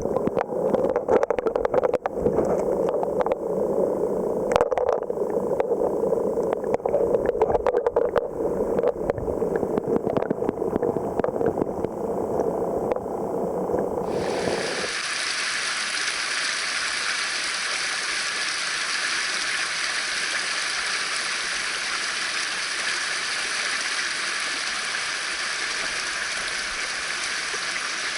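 Mountain stream water rushing. For the first half it is a close, churning gurgle with many small splashes; about halfway through it changes abruptly to a steady, brighter hiss of rushing rapids.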